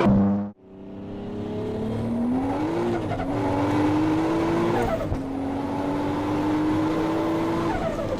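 Toyota Supra's turbocharged engine running at a steady speed, its note swelling briefly about three seconds in and dipping shortly before the middle. The sound cuts out abruptly about half a second in, then comes back.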